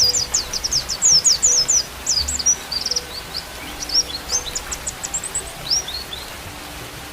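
White-eye (pleci) singing a rapid twittering song of quick, high, falling chirps. The song is densest in the first few seconds, turns sparser, and dies away near the end.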